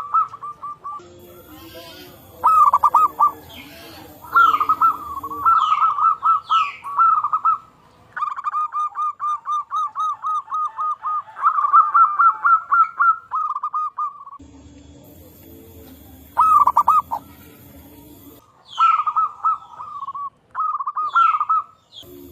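Zebra doves (perkutut) cooing: trains of short, clear notes at one pitch, several a second, breaking into quicker runs, with more than one dove answering. Short falling chirps from another bird come in between.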